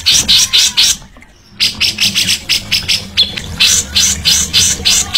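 A songbird giving a rapid series of harsh, scratchy notes, about four or five a second, broken by a short gap about a second in.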